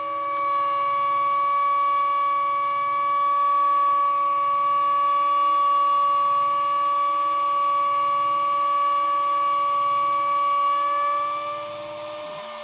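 Stepper motors of a homemade Arduino CNC machine, driven by A4988 drivers, whining at one steady pitch as an axis moves at constant speed. Near the end the pitch rises slightly and the sound gets quieter.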